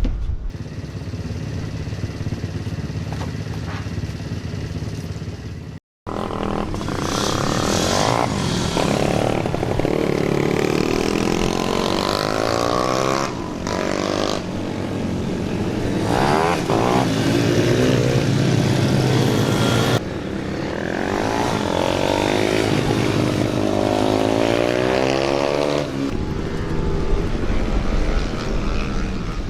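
Motorcycle engines running on track, the pitch rising and falling again and again as bikes rev and pass. A steady engine drone comes first, then the sound drops out for an instant about six seconds in, and the sound changes abruptly twice more later on.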